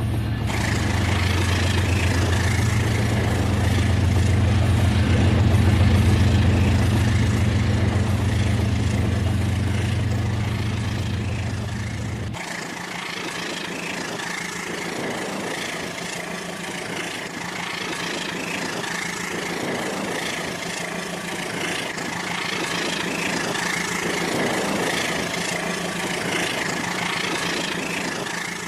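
Battery-powered toy train running, its motor giving a steady whirr. A deep low hum under it stops abruptly about twelve seconds in.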